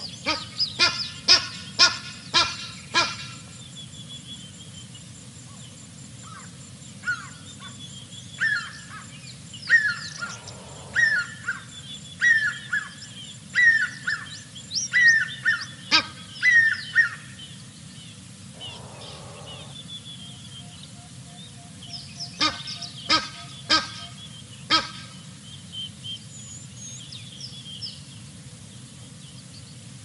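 Wild birds calling: a quick series of loud, sharp calls at the start and again about three-quarters of the way through, and in between a run of short down-slurred calls, roughly one a second. A steady low background rumble runs underneath.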